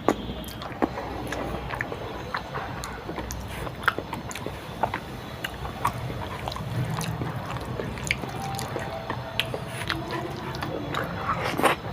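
Close-up eating sounds of dal and rice: chewing and many short wet clicks and smacks, scattered irregularly throughout.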